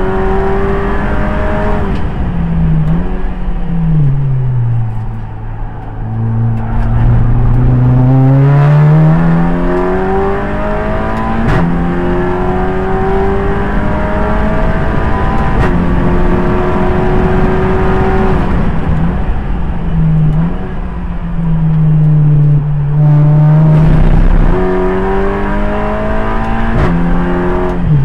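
Audi TT Cup race car's 2.0 TFSI petrol engine driven hard on track. The revs climb steadily through the gears with a sharp drop at each upshift, and fall away under braking into slower corners.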